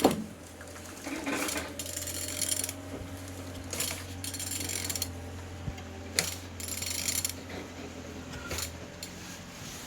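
Ratchet wrench clicking in several short runs as a VW 1.6 TDI (CAYC) engine's crankshaft is turned over by hand, over a steady low hum; the engine turns freely.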